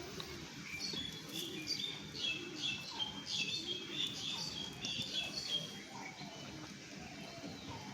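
Small birds chirping: a quick run of short, high chirps from about a second in until past halfway, then sparser calls.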